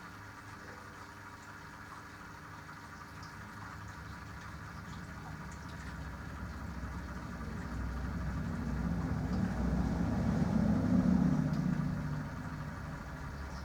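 Compact Minicolo washing machine running its wash cycle: a steady motor hum as the drum turns. The hum swells over several seconds, peaks about eleven seconds in, then eases off.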